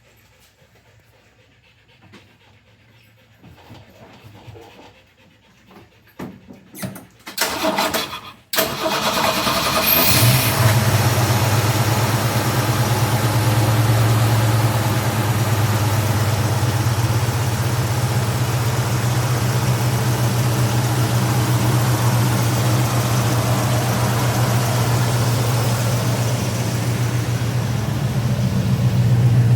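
1982 Jeep CJ-8 Scrambler engine started from cold: after some brief cranking about seven seconds in, it catches and settles into a steady cold idle.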